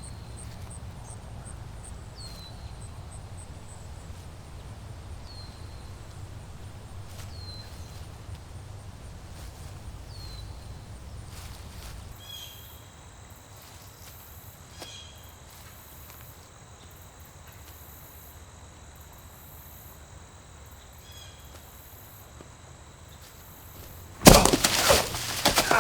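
Outdoor woodland ambience: a bird gives a short, falling chirp every two to three seconds over a low background rumble. Near the end a loud, sudden noise breaks in.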